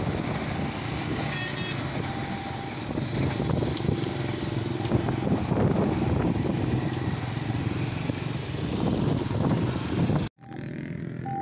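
Train passing close by a level crossing: a loud, steady rumble and clatter of wheels on the rails, with engine drone underneath. It cuts off suddenly about ten seconds in, after which a steady tone is heard.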